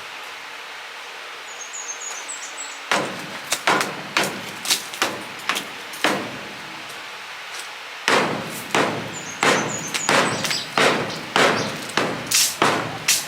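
Hammer blows knocking at brick and cement, sharp strikes at about two to three a second starting about three seconds in, with a short pause in the middle. A small bird chirps faintly twice.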